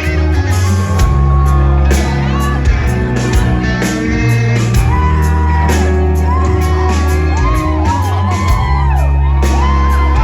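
Live rock band playing loud in a large hall, with heavy bass, steady drum hits and singing, and voices shouting and whooping over it.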